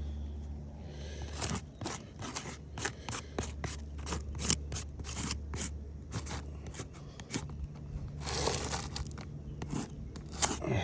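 Asphalt roof shingles being lifted, flexed and scraped: a long run of sharp crackles, clicks and scrapes, with a longer scraping stretch about eight seconds in. The crackling is the shingle material creasing and tearing as it is worked.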